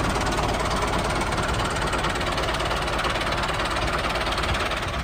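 A small engine running steadily at a constant level.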